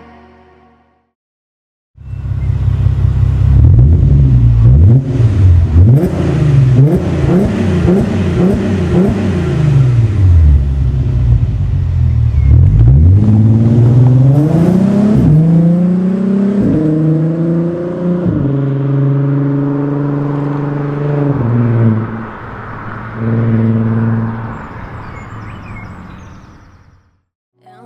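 Volkswagen Passat R36's 3.6-litre VR6 engine and exhaust, loud, revved in a string of quick blips that rise and fall several times a second apart. It then pulls up through the revs in one long rise broken by gear changes, holds steady, drops off, gives one last short burst and fades away.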